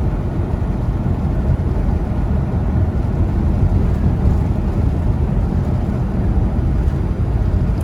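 Steady low rumble inside a semi truck's cab while driving on the highway: engine drone mixed with road and tyre noise.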